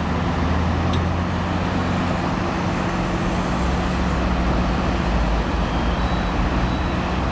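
Steady drone of a car's engine and tyre noise, a low hum that holds even throughout.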